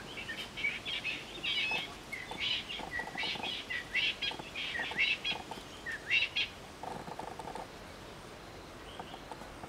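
A bird singing a run of quick, chirping phrases with fast up-and-down sweeps for about six seconds, then a brief lower trill.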